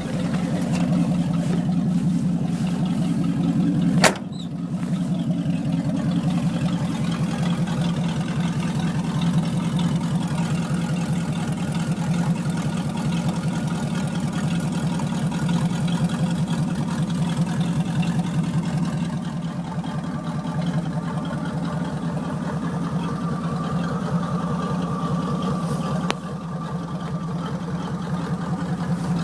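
Carbureted 1979 Chevy 350 small-block V8 idling steadily just after a cold start, its exhaust leaking through a large hole. A sharp click about four seconds in.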